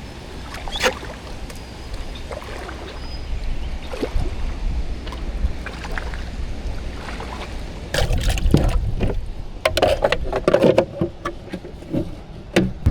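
Kayak on the water: scattered knocks of paddle and gear against the hull, with water splashes, over a low wind rumble. The knocks and splashes grow busier in the second half.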